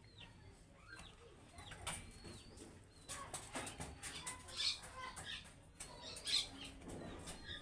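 A group of budgerigars chirping and chattering: quick short chirps mixed with scratchy noisy bursts, getting busier about three seconds in.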